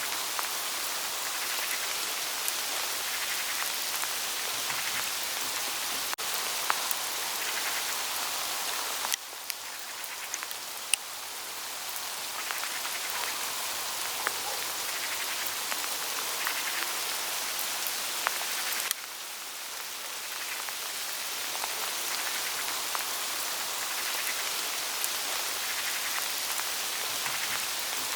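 Hail falling on autumn foliage: a steady hiss of countless small ticks and patters on the leaves. The level drops suddenly twice, about a third and two thirds of the way through, and builds back gradually.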